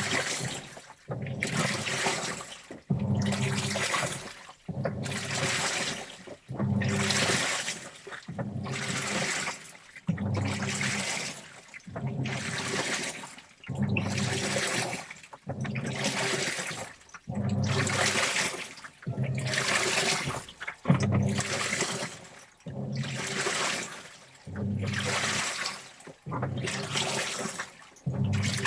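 Washing machine in its wash cycle, turning a load of T-shirts back and forth: water sloshing through the clothes with each turn, the motor humming under it, about one stroke every two seconds with a short pause between.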